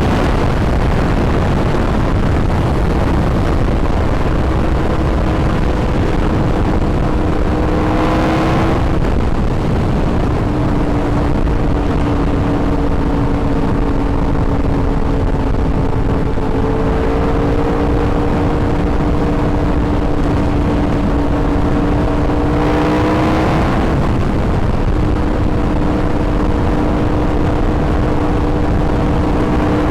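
Yamaha R1 sport bike's inline-four engine running under way, its pitch climbing slowly and then dropping sharply twice, about nine seconds in and again near twenty-four seconds, as it shifts up a gear. A steady rushing noise runs underneath.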